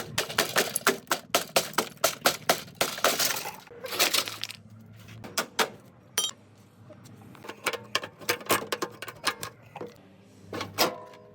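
Rapid series of sharp metallic taps and clinks, about three to four a second at first, then scattered clinks of metal parts and tools.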